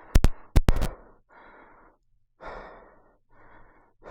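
A few sharp knocks in the first second, then a man breathing hard in a run of heavy breaths, out of breath from the exertion of a failed climb up a steep sand hill.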